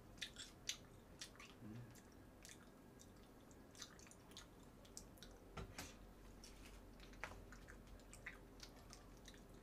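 Faint chewing of braised pork trotter (jokbal), with irregular soft mouth clicks and smacks.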